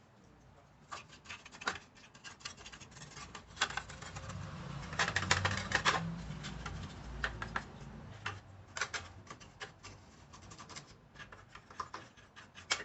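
Irregular scratching, rubbing and clicking handling noise, densest and loudest for a couple of seconds around the middle with a low rumble under it.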